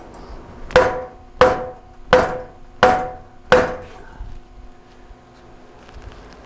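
Five hammer blows on a steel exhaust pipe, about 0.7 s apart, each one ringing briefly. The blows are driving a tight pipe joint together on a truck's aftermarket exhaust, up to a mark on the pipe.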